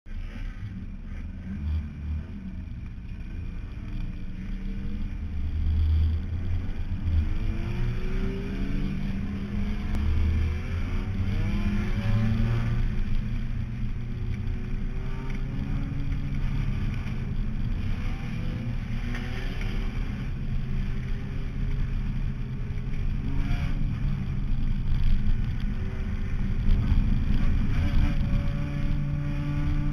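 Honda EF Civic's four-cylinder engine heard from inside the race car's cabin, running hard around a dirt track. Its pitch sweeps up several times as it accelerates and then holds steady, over a constant low rumble.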